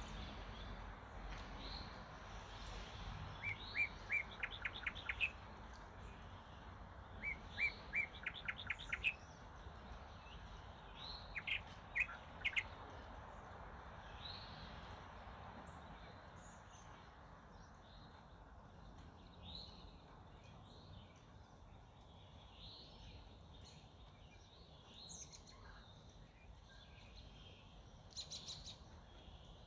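Songbirds singing over a steady outdoor hiss. One bird twice sings a phrase of a few clear notes ending in a quick run of rapid notes, then gives two strong notes. Fainter calls follow, with a short rapid trill near the end.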